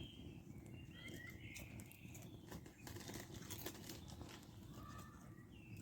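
Crisp packet crinkling and rustling, with small crunches of crisps being eaten, and a few faint bird chirps.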